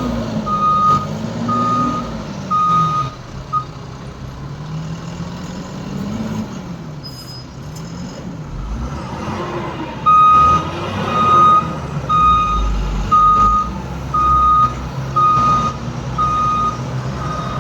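Heavy vehicle's reversing alarm beeping about once a second over a diesel engine whose pitch rises and falls. The beeping stops a few seconds in and starts again about halfway through.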